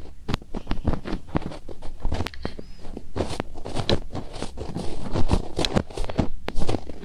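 Fingertips rubbing and scratching in the ears of a binaural ASMR microphone: an irregular run of close, crackly scratches and taps, several a second.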